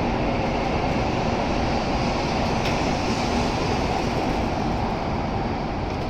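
N700A series Shinkansen train at the platform, a steady rumble and hum that eases off slightly near the end, as the train comes to a stop.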